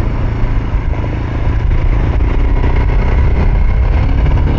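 Royal Enfield Himalayan's 411 cc single-cylinder engine running steadily at low revs on a dirt road, with a haze of wind and tyre noise over it.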